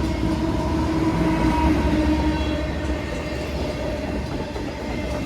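Freight train cars rolling past on the rails with a steady rumble and rail clatter. A faint steady tone over the rumble fades away after two or three seconds.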